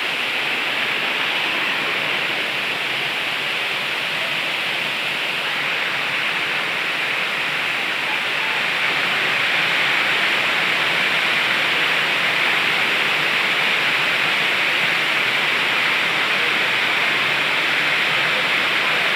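A waterfall's water crashing down, a steady dense rushing hiss that grows slightly louder about halfway through.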